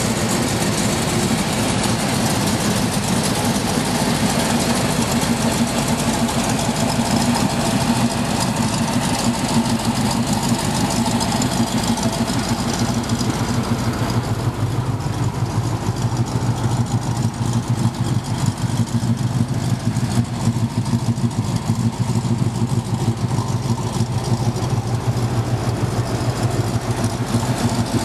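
1968 Chevrolet Malibu's engine idling steadily.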